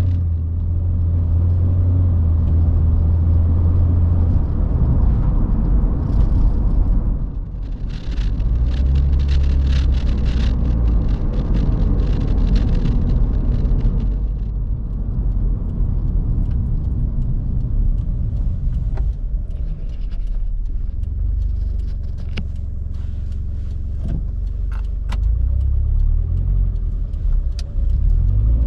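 Toyota 86's flat-four engine running with a low rumble through an HKS aftermarket muffler. The engine note dips and picks up again a few times.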